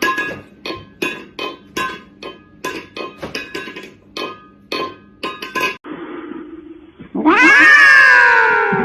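A cat lets out a long, loud yowl, falling in pitch, starting about seven seconds in. Before it comes a run of sharp, regular taps, about three a second.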